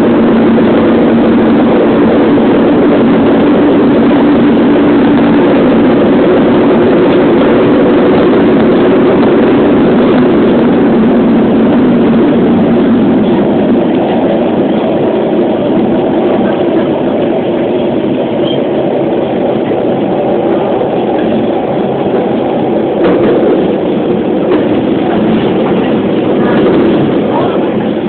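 A commuter train running on the rails, heard from aboard at the window: a steady rush of wheel and running noise with a low motor hum. The hum fades and the noise eases in the second half as the train slows for the station.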